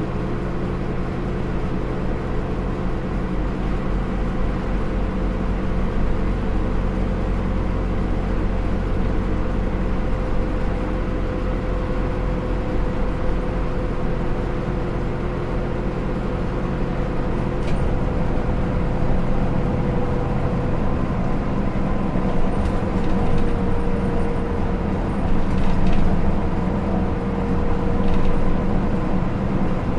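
Hino Rainbow II bus's Isuzu 4HK1-TCH four-cylinder turbo-diesel with Aisin automatic transmission running under way. A steady engine hum, dipping slightly in pitch around the middle and growing a little louder near the end.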